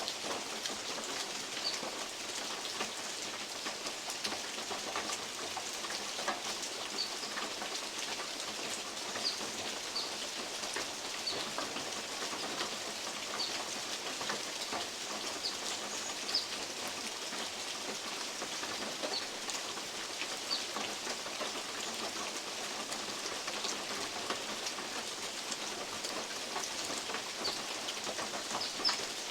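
Steady rain in the forest, with big drops from oak leaves pattering irregularly on a metal roof as many sharp little ticks over a constant hiss.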